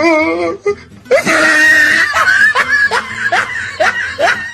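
A person lets out a high shriek, then breaks into a rapid run of laughter, short rising laughs at about two to three a second.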